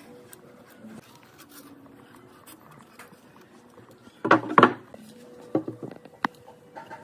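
A loud clatter about four seconds in, followed by a few lighter knocks, over a faint steady hum.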